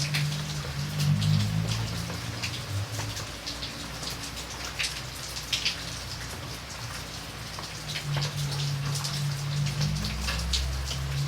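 Rain falling steadily, with many separate drops ticking sharply on a hard surface over a constant patter. A low steady hum sits underneath for the first few seconds and returns from about eight seconds in.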